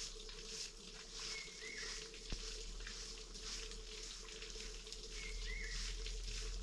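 Outdoor ambience with a steady high hiss and two short chirping bird calls, one about a second and a half in and one about five seconds in, plus a faint steady hum and a single sharp click a little after two seconds.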